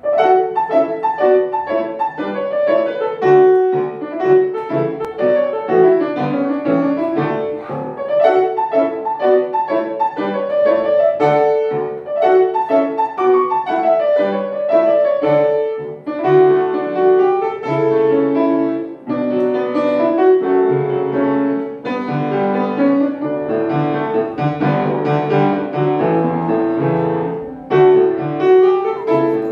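Piano music: a steady stream of notes played without a break.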